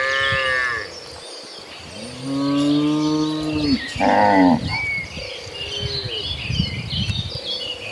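Cattle mooing: several drawn-out moos from the herd, the longest a low call lasting over a second about two seconds in, with shorter ones following. Steady high chirping runs underneath.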